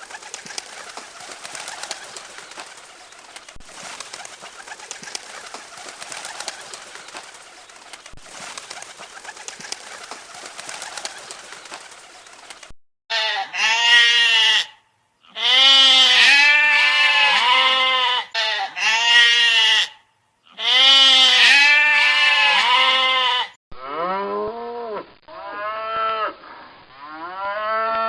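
A steady hiss of background noise with faint ticks for about half the time, then loud bleating: repeated long, wavering cries, several in a row with short gaps, continuing in another clip near the end.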